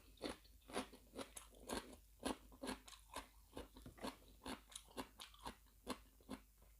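Close-up chewing of a mouthful of seafood larb with raw vegetables: soft, even crunches about two or three times a second.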